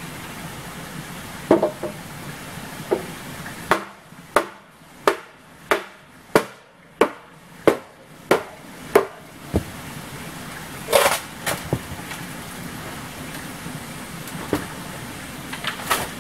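A tool striking wood in a steady rhythm: about ten sharp blows, a little under two a second, a few seconds in. A few scattered knocks come before and after.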